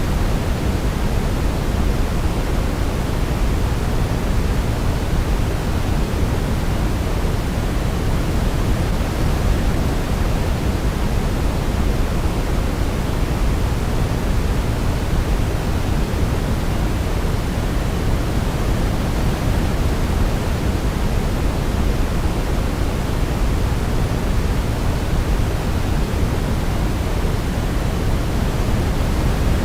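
Steady synthetic sleep noise, a constant rushing hiss weighted toward the low end like pink noise, played to mask other sounds for a sleeping baby. No melody can be picked out.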